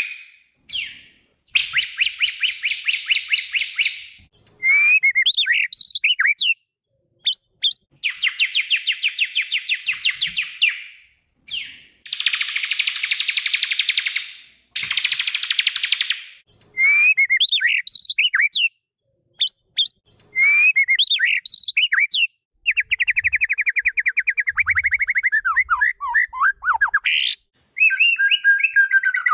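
White-rumped shama (murai batu) singing. Long rapid rattling trills, each lasting two to three seconds, alternate with short phrases of sliding whistled notes.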